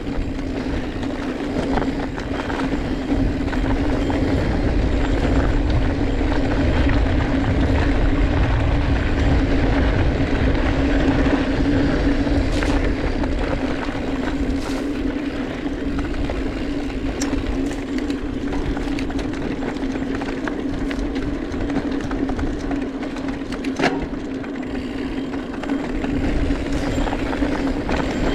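Mountain bike rolling along a trail, heard close up: knobby tyres running with a steady hum, wind rumbling on the microphone, and a few sharp clicks and rattles from the bike.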